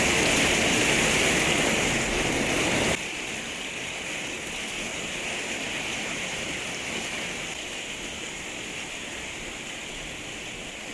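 Torrential rain falling as a dense, steady hiss, with no thunder. About three seconds in it drops suddenly to a quieter level, then fades slowly.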